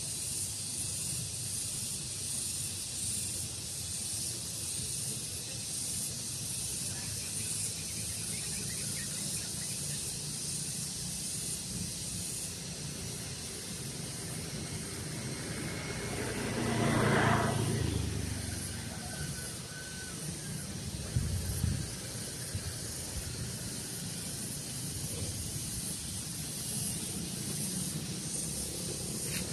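Steady breeze hiss with a few faint bird chirps, and a louder swell past the middle that rises and fades over about three seconds.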